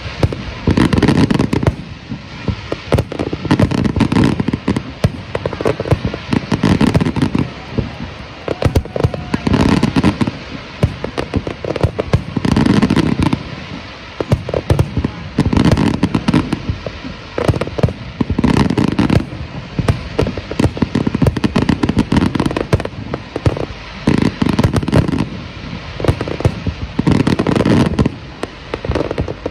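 A fireworks display going off in a dense barrage: deep shell-burst booms come every couple of seconds over constant rapid pops and crackling.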